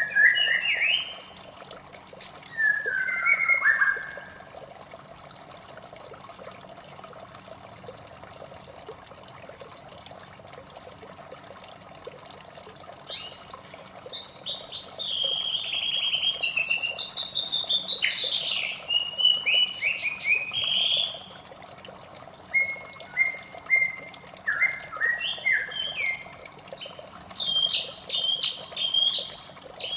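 White-rumped shama singing: two short whistled phrases at the start, a long run of rich, varied song from about the middle, then quick clipped notes near the end. A steady trickle of running water underneath.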